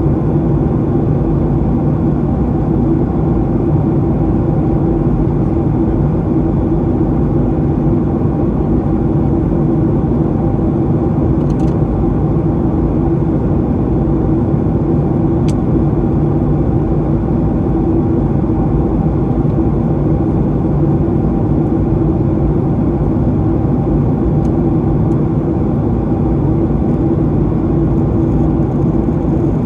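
Steady in-flight cabin noise of a Boeing 737-800 heard from a window seat: a constant rush of airflow with a low hum from the CFM56 engines. A faint click sounds about fifteen seconds in.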